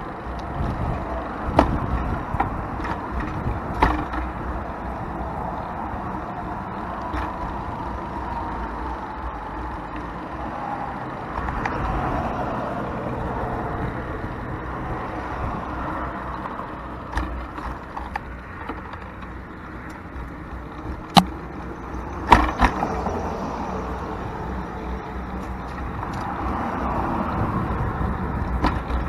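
Car traffic passing on a four-lane road, heard from a bicycle on the sidewalk alongside, swelling and fading as vehicles go by. A few sharp knocks stand out, the loudest two about two-thirds of the way in.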